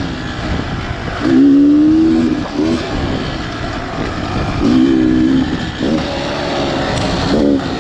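Beta Xtrainer 300's two-stroke single-cylinder engine revving in repeated short bursts, its pitch rising and falling as the throttle is opened and closed, over a steady rushing noise.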